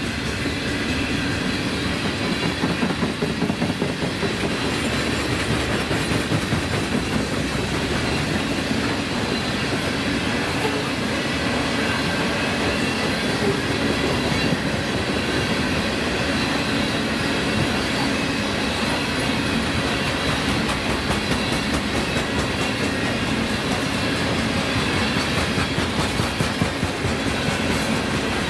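A train rolling past, its wheels clattering over the rails in a steady, continuous rumble.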